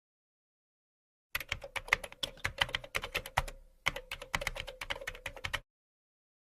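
Fast typing on a computer keyboard: a quick, uneven run of key clicks over a faint steady hum, breaking off briefly about halfway through.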